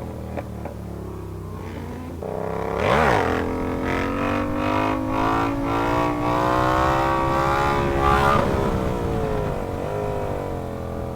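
Sportbike engine accelerating, its pitch rising through the revs, with a sudden drop at a gear change about eight seconds in.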